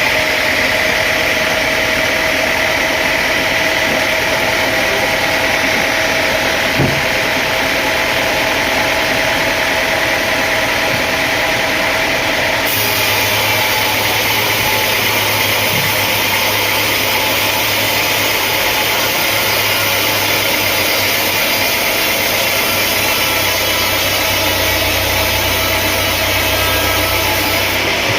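Sawmill machinery running with a loud, steady mechanical noise. There is a single knock about seven seconds in. About halfway through the sound changes abruptly and a deeper steady hum joins in.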